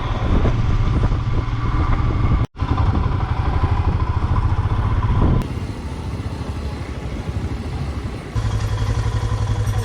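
Royal Enfield Himalayan's single-cylinder engine running under way, a fast low pulsing rumble mixed with road and wind noise. The sound drops out for a moment about two and a half seconds in and changes level twice, as separate riding clips are joined.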